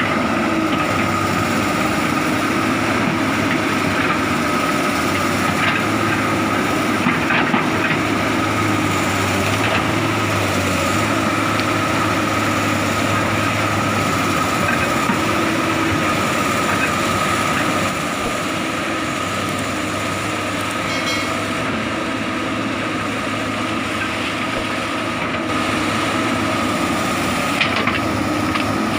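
Komatsu hydraulic excavator's diesel engine running steadily under work, with a constant high whine over a low drone and a few faint knocks; the level dips slightly about two-thirds of the way through.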